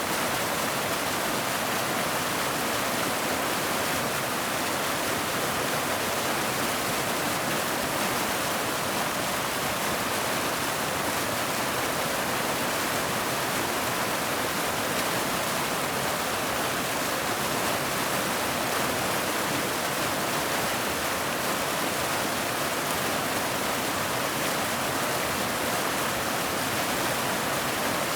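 Waterfall: water falling and splashing in a steady, even rush, mostly hiss with little bass, with no change throughout.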